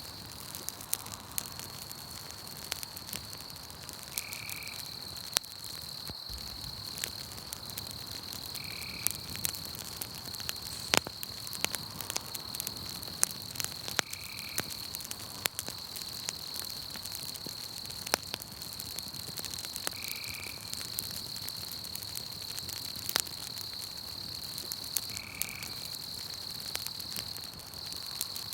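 Campfire crackling with scattered sharp pops, over a steady high-pitched chorus of crickets. A short chirping call repeats about every five seconds.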